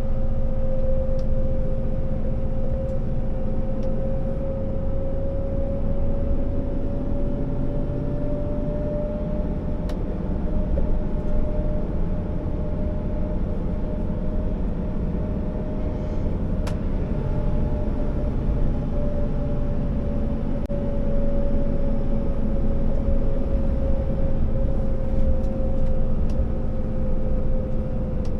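Scania R650 timber truck's V8 diesel engine and road noise while driving laden, a steady low rumble. A steady whine runs over it, creeping slightly higher in pitch around the middle and easing back down later, with a couple of faint clicks.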